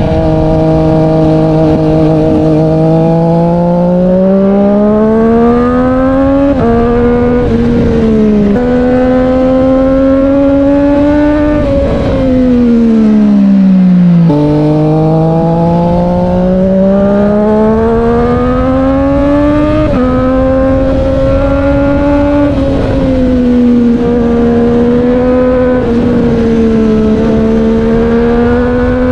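Triumph Street Triple 765 R's inline three-cylinder engine through an SC Project S1 exhaust, ridden through the revs: the note climbs steadily with a few quick drops in pitch at gear changes, falls away about twelve seconds in as the bike slows, then climbs again.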